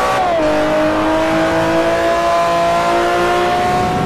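Sports car engine accelerating hard. Its pitch drops sharply about a third of a second in, as at an upshift, then climbs slowly and drops again at the end.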